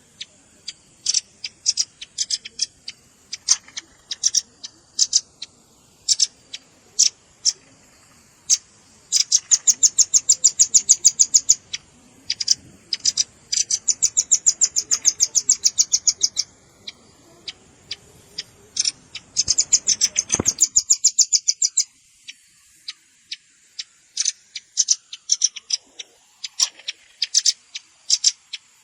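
Velvet-fronted nuthatch calling: sharp, high, repeated chip notes, broken up by three rapid trilled runs of about ten chips a second, one about a third of the way in, one in the middle and one about two-thirds through.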